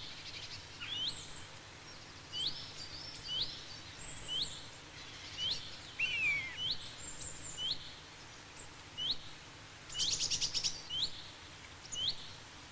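Woodland birds calling: a short upward-flicking chirp repeats about once a second, with a brief falling warble about halfway through and a quick rattling call near the end.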